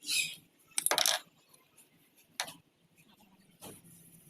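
Small metal parts or tools clinking against each other: a few separate light clinks, the loudest about a second in.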